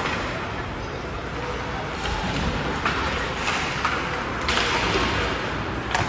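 Ice hockey play in an arena: several sharp clacks of sticks and puck, and a hissing skate scrape on the ice a little past halfway, over a steady arena din.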